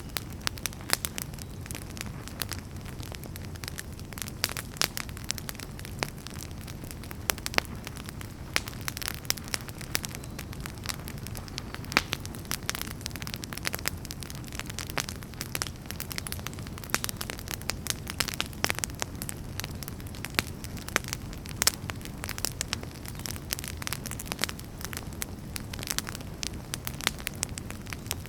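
Wood fire burning in a fireplace: a steady low rumble of flames with many irregular sharp crackles and pops, some louder than others.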